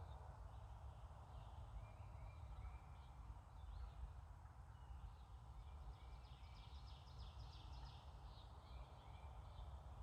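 Faint outdoor wildlife ambience of birds calling: short paired notes repeat over and over, and a rapid trill of quick notes runs through the middle, over a low steady rumble.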